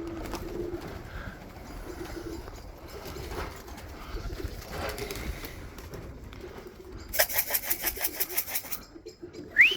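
Pigeons cooing in the loft. About seven seconds in there is a rapid rattling run of about a dozen sharp strokes lasting a second and a half. At the very end comes a short whistle that rises and then holds.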